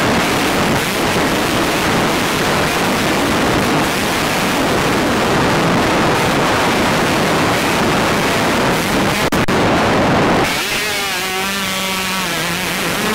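Motocross bike engine recorded on a rider's headcam. For about ten seconds it is buried under a loud, even rush of wind on the microphone. Then the rush drops away and the engine note comes through clearly, rising and falling with the throttle.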